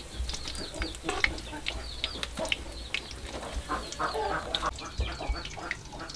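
Chickens clucking, with quick high-pitched peeps repeating throughout and scattered sharp clicks and knocks.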